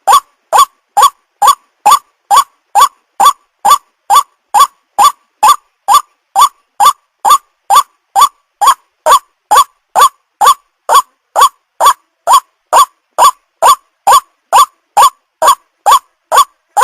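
White-breasted waterhen's call: a short, identical 'kwak' note repeated in an even, unbroken rhythm, a little over twice a second. It is a looped lure call for drawing in waterhens.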